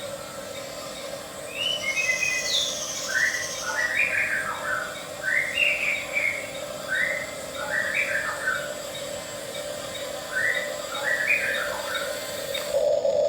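A bird singing short chirping phrases, repeated every second or two, over a steady hum. Near the end the hum suddenly gets louder.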